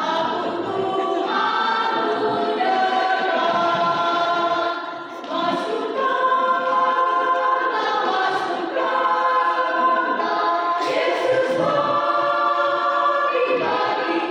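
A choir singing a hymn in several voice parts, holding long sung notes, with short breaks between phrases about five and eleven seconds in.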